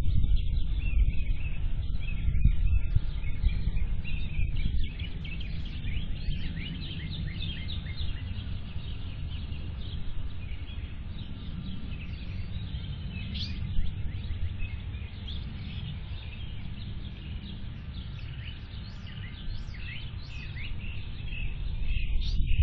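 Many small birds chirping and calling over a steady low rumble of outdoor background noise, heard through a security camera's microphone, which cuts off the highest sounds.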